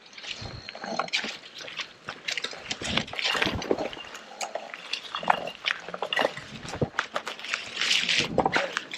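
Electric unicycle tyre rolling through wet trail mud, with an irregular run of squelching and splattering.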